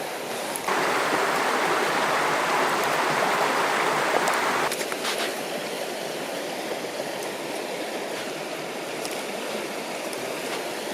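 River water flowing steadily. A louder rushing noise lasts about four seconds near the start, beginning and ending abruptly.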